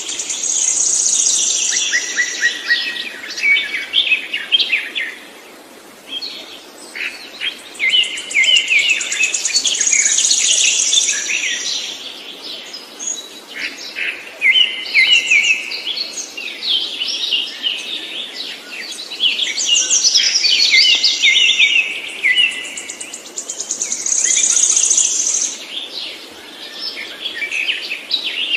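A songbird singing long, varied phrases of rapid chirps and trills, with a high trill recurring every seven or eight seconds.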